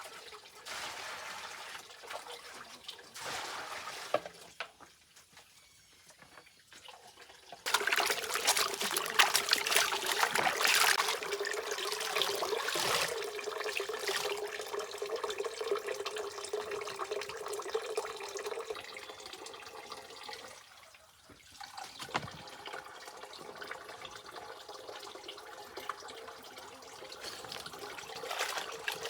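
Water running and splashing, turning suddenly louder about eight seconds in, then settling to a steadier flow.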